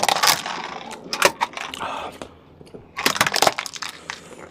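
Crustacean shell being cracked and pulled apart by hand, in two bouts of crackling clicks: one in about the first second and another around three seconds in.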